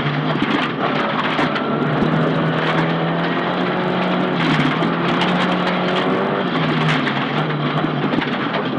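Nissan Silvia S15 rally car's engine pulling hard at a fairly steady pitch, with road and tyre noise. The pitch drops briefly about two-thirds of the way through.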